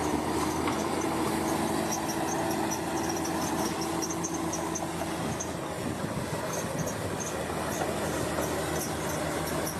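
Bulldozer's diesel engine running steadily under load, with scattered short high-pitched squeaks throughout.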